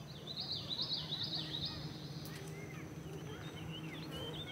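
Songbirds singing outdoors: a quick run of repeated high warbling notes in the first two seconds, then scattered short chirps, over a low steady hum.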